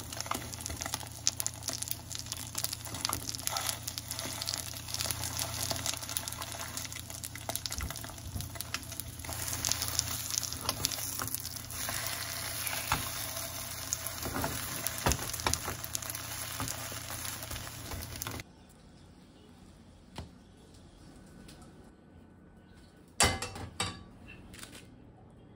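Food sizzling as it fries in a pan, a dense hiss with many small pops, which cuts off suddenly about three-quarters of the way through. Then a quiet room, with a sharp knock near the end.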